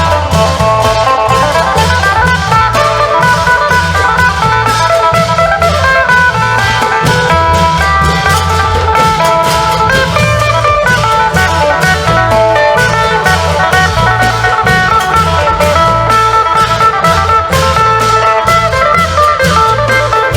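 Isan folk music: a phin (Isan lute) plays a busy plucked melody over klong yao long drums and other percussion keeping a steady, driving rhythm.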